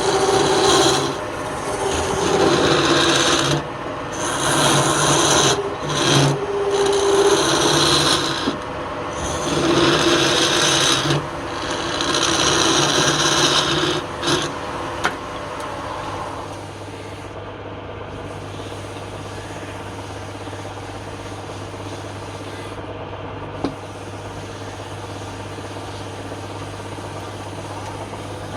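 Wood turning on a lathe: a tool or abrasive scrapes against the spinning wood in uneven strokes. About halfway through the contact stops and only the lathe motor hums steadily.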